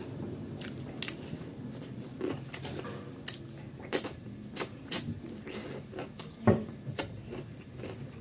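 A person chewing a mouthful of chicken curry and rice, with irregular wet mouth clicks and smacks, several sharper ones in the middle of the stretch.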